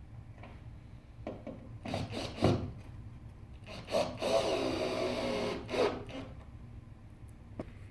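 Wood being worked by hand: a few light knocks, then a long rasping stroke across the wood about four seconds in, then another knock near the end.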